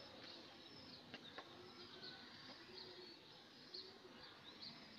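Near silence: faint room tone with short, high bird chirps in the background every second or so, and a few faint ticks.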